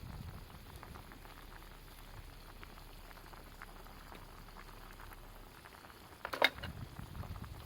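Campfire cooking: soft, steady crackling and bubbling, with one sharp pop about six and a half seconds in, followed by a low rumble.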